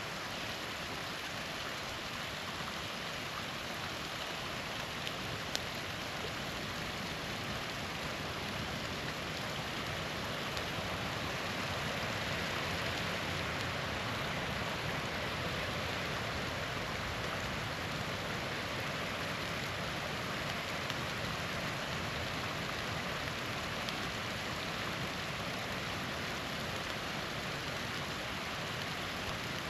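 Small waterfall rushing steadily, with one brief click about five seconds in.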